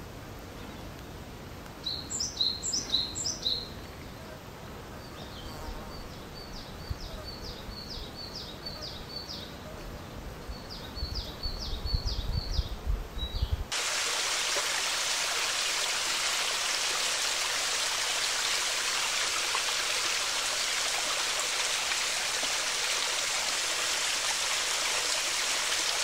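Songbirds calling in short, quickly repeated chirping phrases over a quiet background. About fourteen seconds in, the sound cuts abruptly to a steady, louder rushing hiss that holds unchanged to the end.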